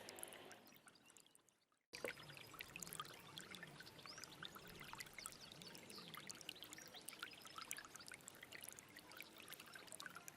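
Small stream trickling and splashing, with many tiny droplet splashes over a steady rush of water. It fades away to near silence in the first two seconds, then cuts back in suddenly with a click.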